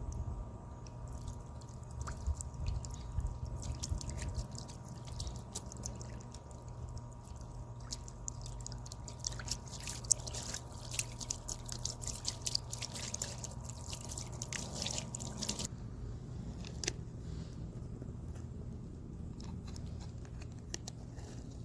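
Solar bird bath fountain spraying, its water drops pattering and dripping into the basin as many small rapid ticks. The drops thin out abruptly about three-quarters of the way through.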